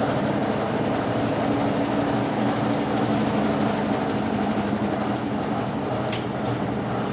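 Consul Facilite 10 kg top-loading washing machine in its wash stage, the motor running with a steady hum as the Brastemp BWL09 agitator fitted to it churns the load.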